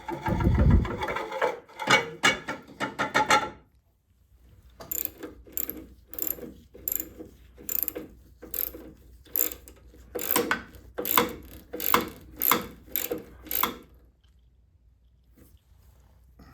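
Clattering of metal parts being handled. Then, after a short pause, a ratchet wrench is worked in quick even strokes, about two clicks a second for roughly ten seconds, as bolts are run in during reassembly.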